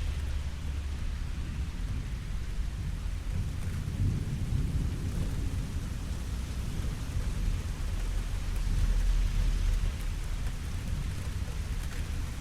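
Steady rainfall with a low rumble of distant thunder, which swells about four seconds in and again later.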